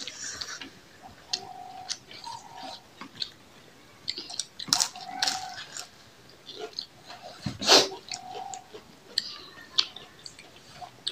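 Close-miked eating sounds: chewing, lip smacks and wet clicks as rice and curry are eaten by hand, with one louder burst about three-quarters of the way through.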